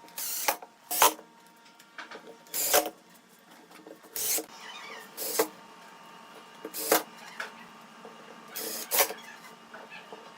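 Woodworking tool strokes on wood: about nine short, sharp scraping or knocking strokes at irregular intervals, some in quick pairs.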